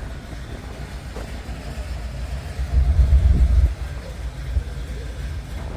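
Low, steady rumble of a vehicle engine idling, swelling louder for about a second midway.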